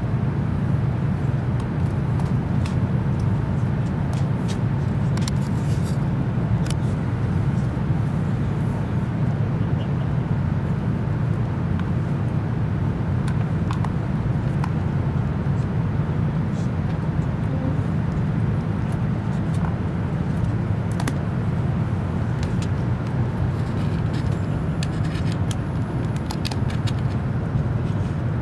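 Cabin noise of an E7 series Shinkansen running along the line: a steady, even low rumble with faint scattered ticks and rattles.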